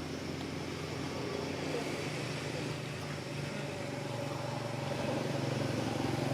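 A vehicle engine running steadily with a low hum, growing a little louder near the end.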